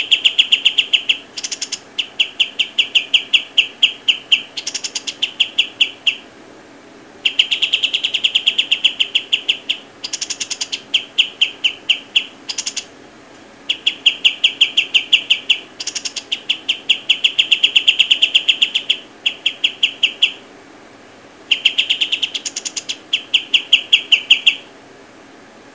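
A bird calling in rapid, even trills of sharp chirps, about eight to ten a second, in bursts of one to three seconds with short pauses between them.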